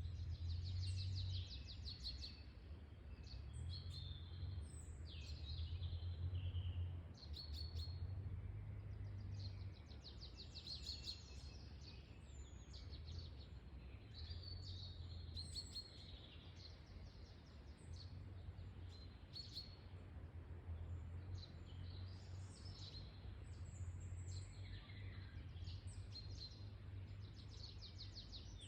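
Several songbirds chirping and singing short rapid trills throughout, over a low rumble of wind that swells and eases.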